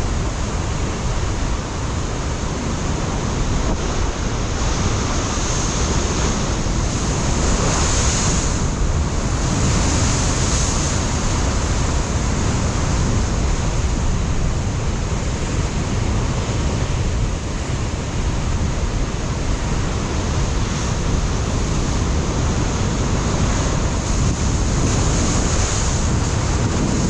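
Ocean surf breaking and washing against a rocky shoreline in a continuous rush, with wind buffeting the microphone as a low rumble. The surf swells a little about a third of the way in.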